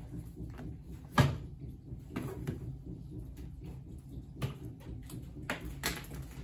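Handling noise from packing parcels: a series of knocks and bumps over a low rumble, the loudest about a second in.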